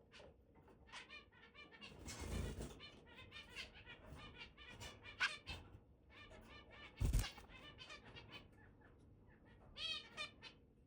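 Red-billed long-tailed finch singing: phrases of short, nasal pitched notes. A noisy burst comes about two seconds in and a sharp thud about seven seconds in.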